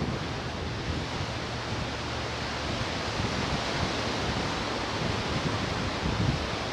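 Ocean surf washing in a steady hiss, with some low gusts of wind buffeting the microphone.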